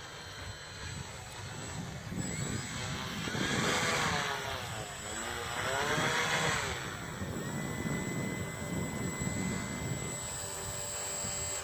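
Electric motor and propeller of an RC model airplane, throttled up and back down twice, the whine rising and falling in pitch about 4 s and 6 s in.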